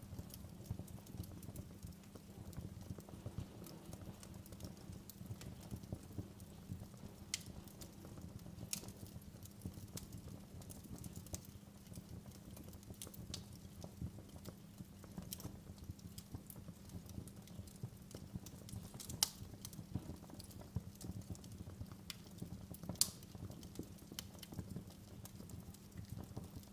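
Wood fire crackling in a fireplace: a faint, steady low rumble of burning, with many small irregular crackles and a few sharper pops.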